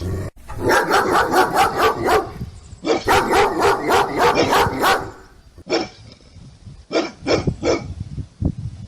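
Bulldog sound effects: two runs of rapid barking, each about two seconds long, then a handful of single barks.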